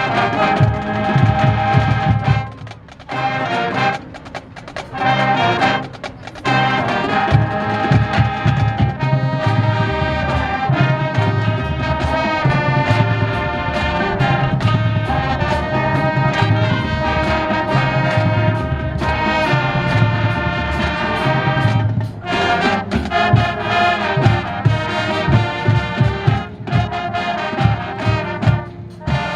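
High school marching band playing: brass section with trumpets and trombones over a steady bass drum beat, with a couple of short breaks in the first few seconds before the playing runs on.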